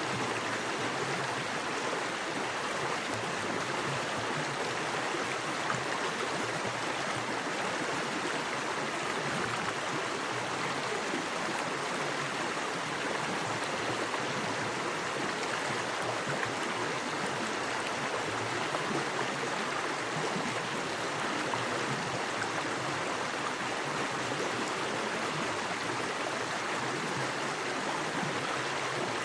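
Small woodland creek with fast water running over rocks, a steady rushing hiss.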